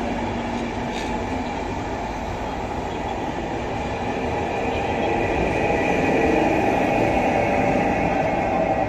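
Passenger train rolling past a platform, a steady rumble of coaches and wheels on the rails. From about halfway a whine joins in and grows louder as the electric locomotive E 68025 draws level.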